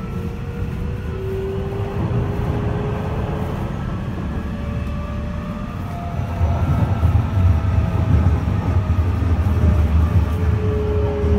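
Running noise inside a Nishitetsu 6050 series train car: a steady low rumble of wheels on track, with faint, slowly shifting whine tones from its Mitsubishi SiC hybrid VVVF inverter. The rumble grows louder about six and a half seconds in.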